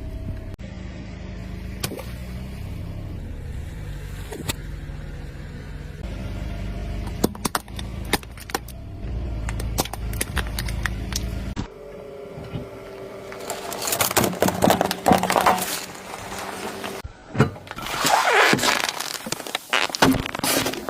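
Car rolling over objects, a steady low engine and tyre rumble with scattered sharp cracks and pops. About halfway through the rumble cuts out, and two loud bouts of crackling, crunching and crumpling follow as things are crushed under the tyre.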